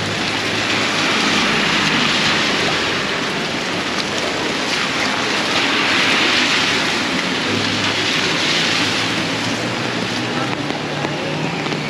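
Heavy tropical rain pouring down and splashing on the street and puddles, a dense steady hiss. A low vehicle engine hum comes and goes underneath.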